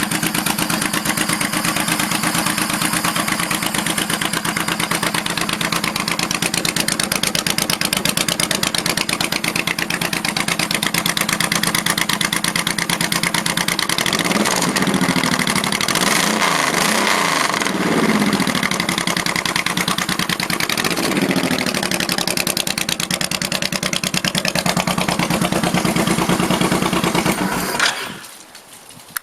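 Honda VTX 1800 V-twin idling loud through open Supertrapp Mean Mothers pipes with Thunder Monster baffles and the pair valve removed. It is revved a few times in the middle, with the pitch rising and falling, then shut off near the end.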